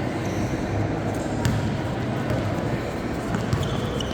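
Basketball game sounds in a gym: a ball bouncing on the court over a steady crowd murmur, with a short high squeak near the end.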